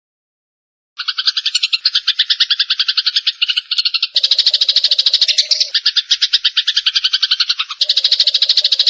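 Eurasian tree sparrow (burung gereja) chattering: a rapid, steady run of sharp repeated chirps that starts about a second in. A second, denser stream of chatter overlaps it partway through, the agitated calling of a fighting sparrow.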